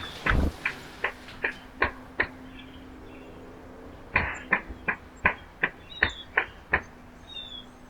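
Birds at a backyard feeder: a series of sharp, irregular taps and clicks in two runs, like pecking and seed-cracking on the feeder, with a few faint short high bird chirps between. A dull low thump comes just after the start.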